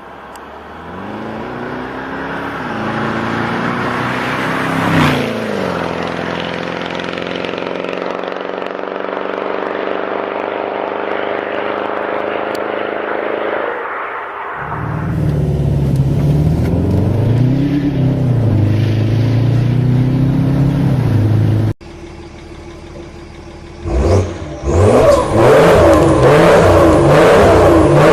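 Diesel car engines with loud straight-piped exhausts, in several short clips. For about the first half one car accelerates, its note climbing and then holding. After a cut another is revved up and down repeatedly, and after a brief quieter stretch one is revved hard near the end.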